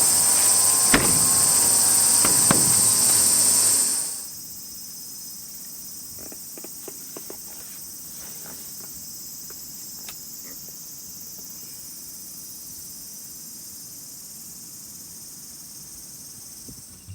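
Steady high-pitched buzzing of summer insects, loud at first along with a steady whine and a few sharp clicks, then dropping abruptly about four seconds in to a quieter insect hum with faint scattered clicks.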